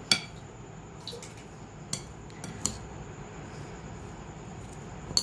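A spoon clinking against a bowl about five times, sharpest right at the start, while stirring chopped vegetables and boiled chicken mince together with spices.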